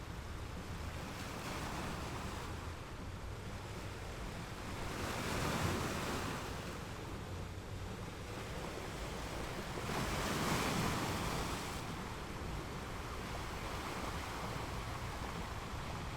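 Ocean surf, a steady wash of waves with two louder breakers swelling and fading, one about five seconds in and one about ten seconds in.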